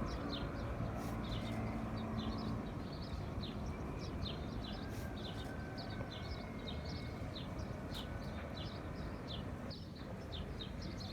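Many small birds chirping, short high chirps several times a second, over a steady low rumble of background noise.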